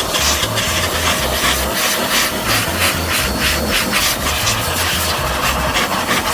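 Rough rubbing strokes, a brush scrubbing in an engine bay, over background music with a bass line that steps from note to note.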